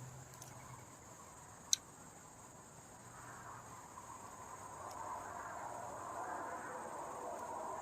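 Faint, steady high-pitched insect trilling, like crickets, with one sharp click a little under two seconds in.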